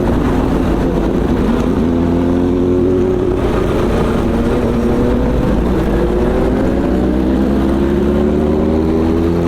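Vehicle engine accelerating, its pitch rising slowly in two long pulls, one about two seconds in and another from about six seconds in, over steady wind and road rush.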